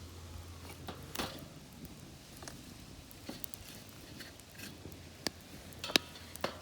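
Tree-root firewood burning in a fire-pit stove, crackling with irregular sharp pops; the loudest pop comes about six seconds in.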